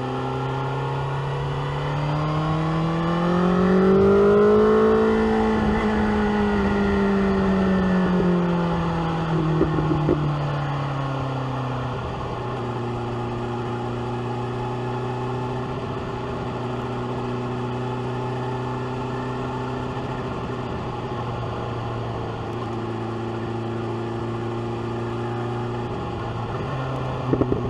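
BMW S1000R's inline-four engine, fitted with an SC Project exhaust, heard from the rider's seat. It accelerates to a clearly higher pitch in the first few seconds, then slowly drops back as the bike rolls off, and settles into a steady cruise. Brief sharp bursts of noise come about ten seconds in and again near the end.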